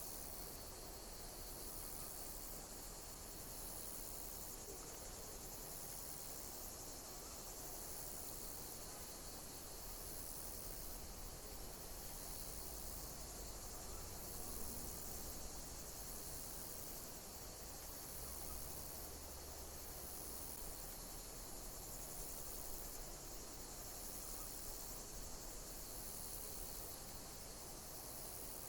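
Insects chirping: a high-pitched chirp repeating about every two seconds over a steady high hiss of insect song.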